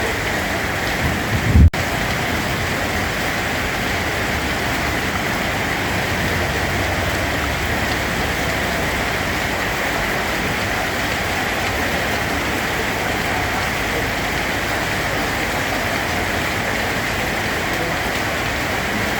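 Steady heavy rainfall, an even hiss with no let-up. About a second and a half in, a brief low thump is the loudest thing, followed by a split-second break in the sound.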